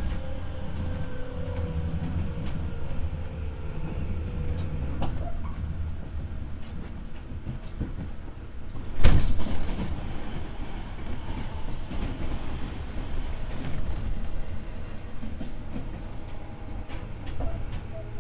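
Running sound inside a Seibu 301 series resistance-control electric train, in a motor car: a steady rumble of wheels on rail under a faint motor hum that slowly falls in pitch over the first few seconds. A single loud thump comes about nine seconds in.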